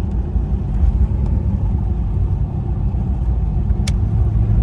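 Car driving, heard from inside the cabin: a steady low rumble of engine and road noise. A single sharp click comes a little under four seconds in, and a steady low engine drone sets in just after it.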